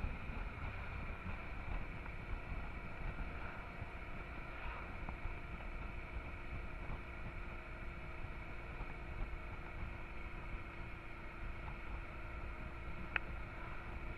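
Honda Transalp XL650's V-twin engine running steadily under way, with wind rumbling on the microphone. A single sharp click near the end.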